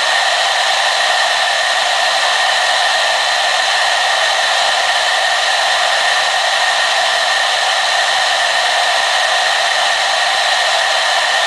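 Hair dryer running steadily: an even, unbroken rush of blown air with a faint whine in it.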